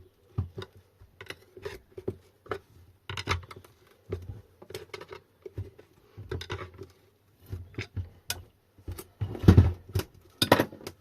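Irregular metallic clicks and knocks of a tool working at a Sur Ron hub motor's cast aluminium side cover to pry it loose, with the loudest knocks near the end.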